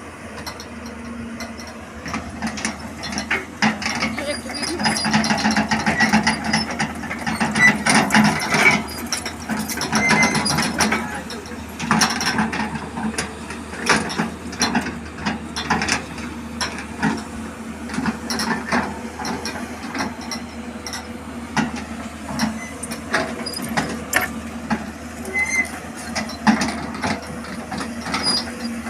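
Hyundai 210 crawler excavator running, a steady low engine hum under many irregular metallic clanks and clicks.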